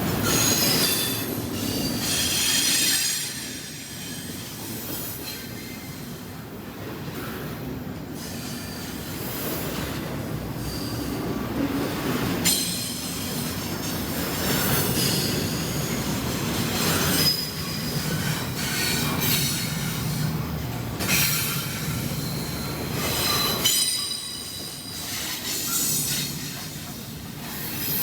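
A CSX freight train's cars rolling past with a steady rumble, their wheels squealing on the rails in high-pitched squeals that come and go.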